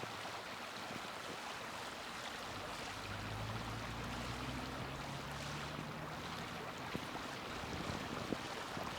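Small wood fire burning in a mini fire stand: a steady hiss with a few sharp crackles near the end. A low engine hum rises in pitch from about three seconds in and fades out a little after six seconds.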